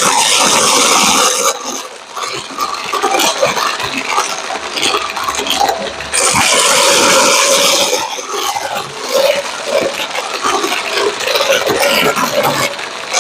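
Vacuum cleaner brushroll crunching and crackling over debris, picked up close to the mic, over a faint steady hum. Two louder hissing rushes come through, one at the start and one about six seconds in, each lasting a second or two.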